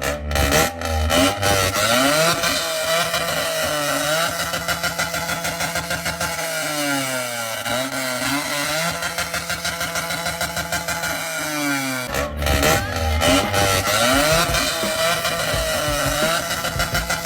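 Engine revving through a very large exhaust, its pitch rising and falling again and again.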